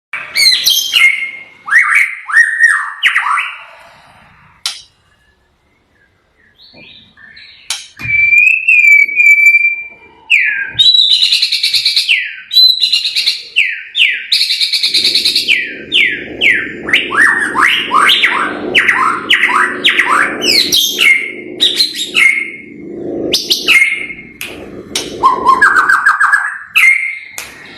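White-rumped shama (murai batu) singing loudly in varied whistled phrases, then, after a short pause, a long rapid run of repeated downslurred notes, the 'tembakan' volleys prized in a lure song for provoking other birds. A low hum sits under the middle of the run.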